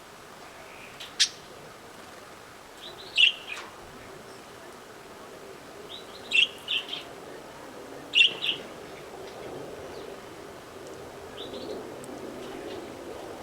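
Caged canaries giving short chirping calls, single chirps or quick pairs a few seconds apart.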